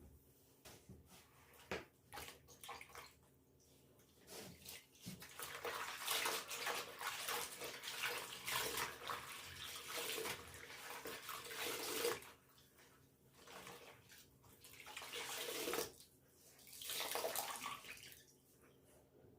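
Water running from a tap into a tub or basin, turned on in three spells, the longest about six seconds. A few light knocks of handling come before it.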